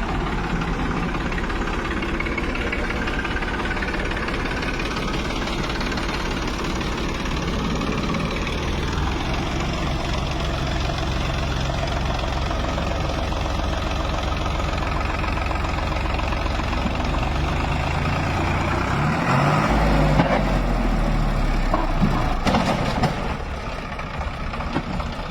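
Heavy diesel engine running steadily, its speed rising and falling briefly about twenty seconds in.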